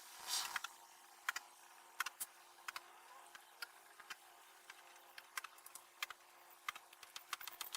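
Scattered light clicks and knocks of metal parts being handled, over a faint steady hum, breaking into a quick run of ratchet-like clicks near the end.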